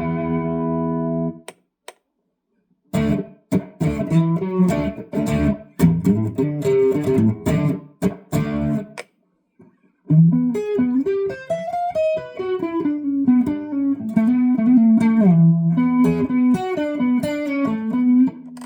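G&L Legacy Tribute electric guitar played alone: a ringing chord is muted about a second and a half in. After a pause comes a run of short, choppy strummed chords. After another brief gap, a single-note melodic line starts about ten seconds in.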